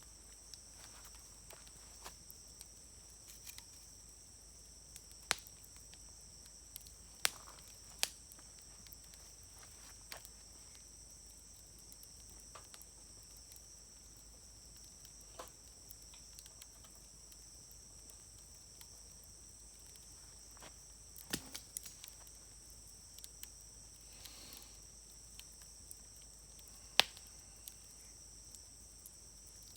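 Wood campfire crackling quietly, with scattered sharp pops from the burning wood, the loudest about 27 seconds in, over a steady high-pitched drone.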